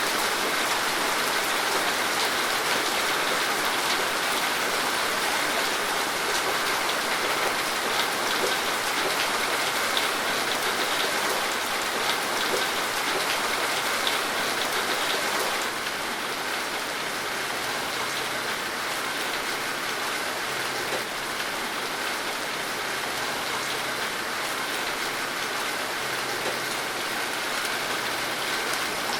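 Steady rain falling, a dense patter of drops hitting a surface, which eases slightly about halfway through.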